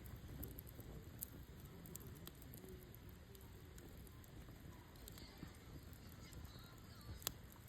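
Oak firewood burning in a campfire, crackling faintly with scattered small pops and one sharper pop near the end.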